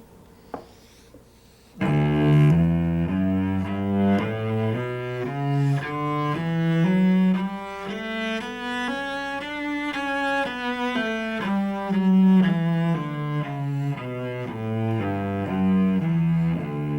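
Solo cello playing a scale up and back down in even notes, starting about two seconds in, practised as a scale-bowing exercise in groups of four that mix slurred and detached strokes.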